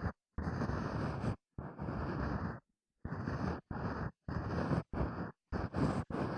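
Ear-cleaning strokes in an ASMR microphone's ear: about eight scratchy, rustling strokes, each up to a second long, with short silent gaps between them.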